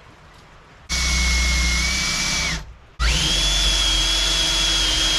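Electric drill with a 1/4-inch bit drilling a hole in forged steel. It runs for about a second and a half with a steady whine, stops briefly, then runs again; on the second run the whine climbs quickly to a higher pitch and holds.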